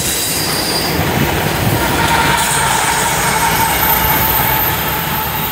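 Freight train rolling past at close range: steel wheels rumbling on the rails, with a steady metal-on-metal wheel squeal setting in about two seconds in. The pushing diesel locomotive at the rear of the train comes by near the end.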